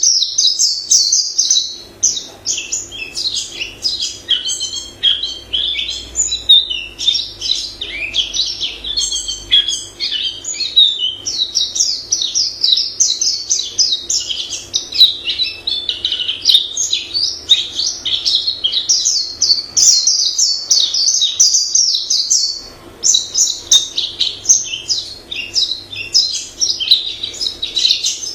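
White-eye singing a long, rapid, varied song of high twittering notes, with short breaks about two seconds in and again about three quarters of the way through.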